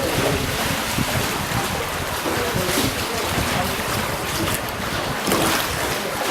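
Steady rushing wind noise on the microphone, mixed with water sounds from a small boat moving on the river.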